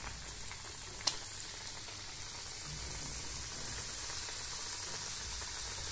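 Coconut-stuffed pitha deep-frying in hot oil: a steady sizzling, crackling hiss that grows a little louder about halfway through. There is a single sharp click about a second in.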